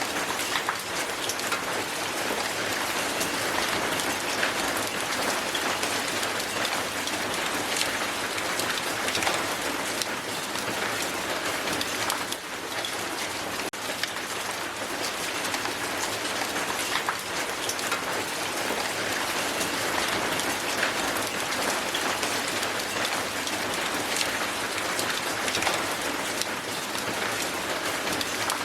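Hail falling onto a hard surface: a dense, steady rush of countless small ticks from the hailstones striking.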